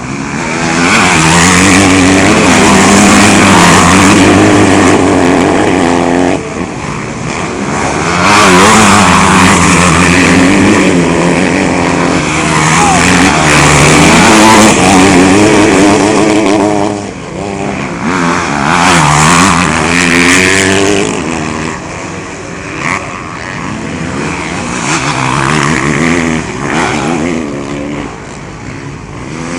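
Motocross bikes racing, their engines revving high and dropping back over and over as they accelerate and brake around the track. The sound swells as bikes pass close and fades between passes.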